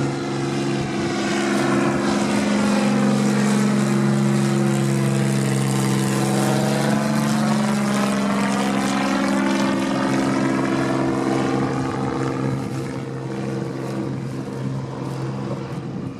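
Dornier Do-27's piston engine and propeller making a low pass, with a steady droning note. The sound sweeps as the aircraft comes over, and the note drops slightly as it goes past about halfway through. It then fades a little.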